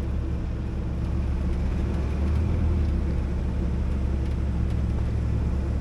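A 4x4 vehicle's engine running with a steady low drone.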